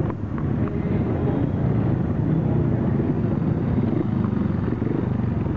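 Grass track racing motorcycles' single-cylinder engines running together, a steady, dense engine noise.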